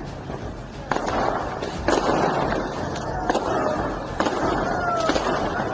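Aerial fireworks going off over a city street: five sharp bangs about a second apart, each trailing off into a hiss.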